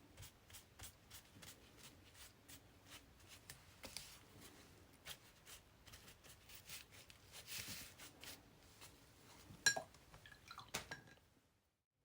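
Faint handling sounds of paper on a journal page: soft rustles and light taps as a scrap of printed paper is laid down and its edges pressed flat, with one sharper click about ten seconds in.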